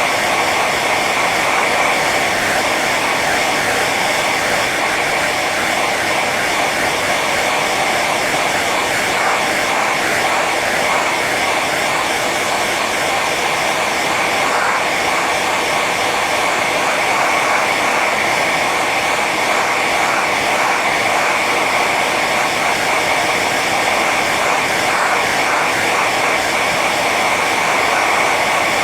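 Hair dryer running steadily on its high setting: an even rush of blown air with a steady whine from the motor and fan.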